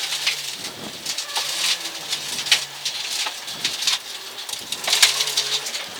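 Rally car driving a gravel forest stage, heard from inside the car: a low engine note that steps up and down in pitch, with a steady crackle and patter of stones and grit striking the underbody.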